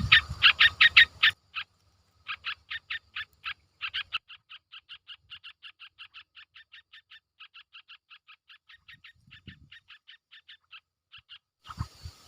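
An animal calling in a rapid, even train of short chirps, about four a second. The calls are loud at first and break off about a second in, then go on fainter with a few short pauses until near the end.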